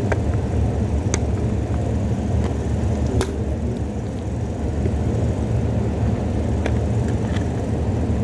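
A steady low rumbling hum, with a few short, light clicks and taps scattered through it from packaging and parts of a sealed phone box being handled and opened.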